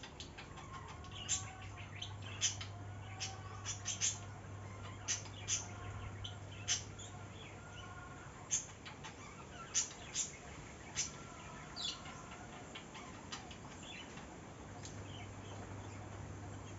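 Small birds chirping: many short, sharp high chirps at irregular intervals, with fainter wavering calls between them, over a steady low hum.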